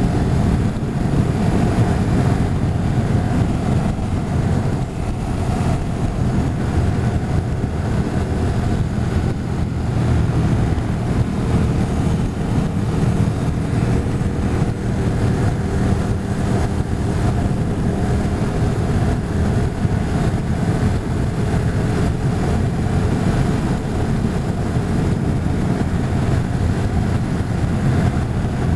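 Motorcycle engine running at a steady road speed, with wind rushing past, heard from the moving bike.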